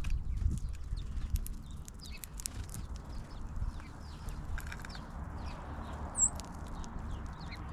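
Small birds calling: many short, sharp high chips and a few down-slurred notes scattered through, over a steady low rumble.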